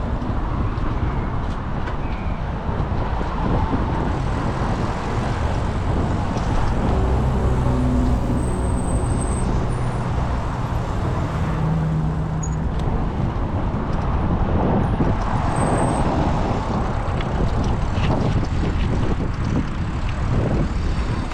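Steady city street traffic: cars and trucks passing close by, with one vehicle's engine standing out near the middle.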